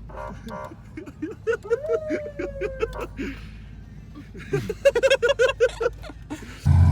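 Men laughing and chuckling in short bursts. Near the end, a muscle car's engine starts running loudly under throttle.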